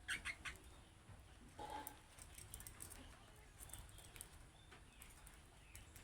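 Budgerigars chirping faintly: a quick run of short sharp chirps at the start, one lower, harsher call near two seconds in, then sparse soft chirps.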